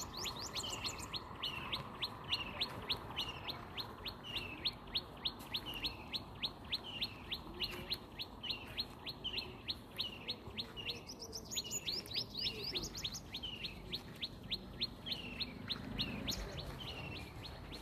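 A small bird chirping over and over, with quick high chirps about three a second, each ending in a short falling note.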